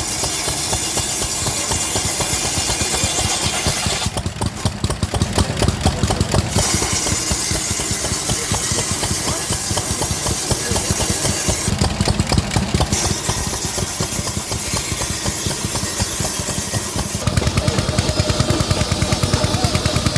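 Vintage engine running with a steady, even beat of firing strokes. The background hiss changes abruptly a few times.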